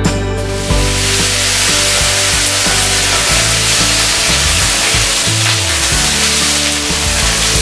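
Sliced bitter gourd (karela) frying in hot oil in a metal kadai: a loud, even sizzle that starts suddenly as the pieces go into the oil and eases off near the end. Background music plays underneath.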